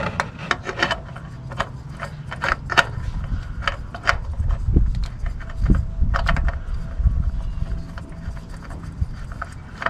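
A spin-on oil filter being screwed onto the engine by hand: scattered light clicks and taps with rubbing and scraping, and a few dull thumps in the middle.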